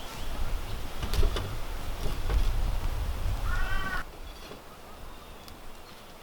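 Low wind rumble on the microphone with scattered clicks and rustles, and one short animal call, like a cat's meow, just before the sound drops off abruptly about four seconds in.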